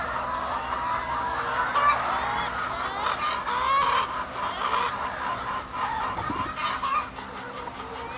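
A flock of laying hens clucking and calling, many birds at once, with a steady low hum underneath.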